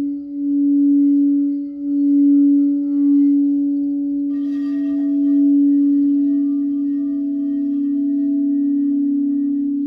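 Quartz crystal singing bowls: a low bowl holds a steady, swelling and wavering tone. About four seconds in, a higher bowl comes in with a brief shimmer and rings on alongside it.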